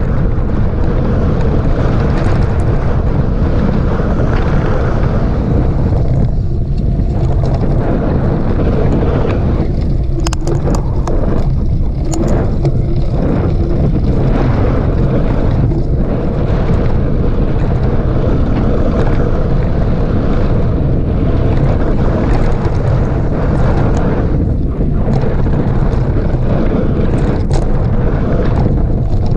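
Steady wind buffeting on a mountain bike's on-board camera microphone during a ride, with rumble from the trail underneath. A few sharp rattles and clicks come through about ten to thirteen seconds in.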